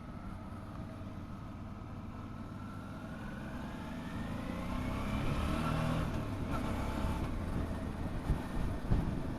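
Motorcycle engine accelerating, its pitch rising steadily for a few seconds and then dropping away about six seconds in, over a low wind rumble, with a couple of short knocks near the end.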